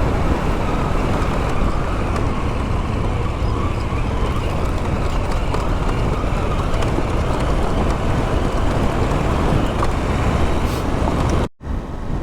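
Motorcycle riding at speed: a steady rush of wind on the helmet microphone over the running engine. It drops out suddenly near the end.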